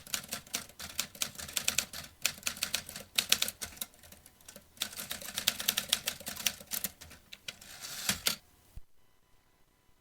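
Vintage manual typewriter being typed on: a fast, uneven run of sharp key strikes that ends with a heavier knock about eight seconds in, then stops.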